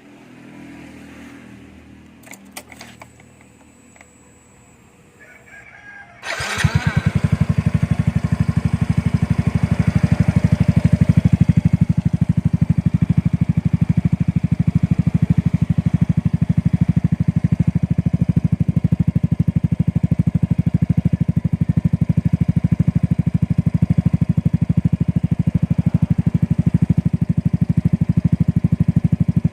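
Motorcycle fitted with an R8 'chicken pipe' aftermarket exhaust starting about six seconds in, then idling steadily with a fast, even exhaust beat on a cold start.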